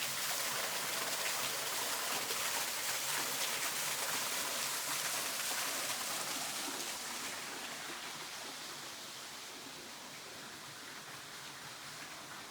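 Steady rush of creek water falling over rocks, which slowly fades and loses its hiss over the second half.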